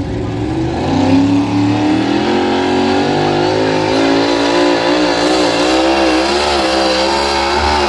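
A pulling tractor's engine running hard at high revs under load. Its pitch climbs about a second in, then holds loud with the pitch wavering up and down.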